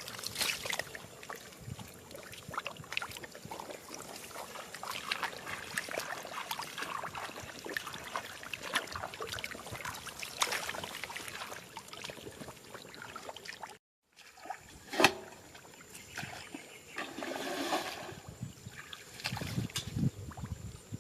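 Water splashing and trickling, full of small clicks and splashes. It cuts off suddenly about two-thirds through and resumes more sparsely, with one sharp knock soon after.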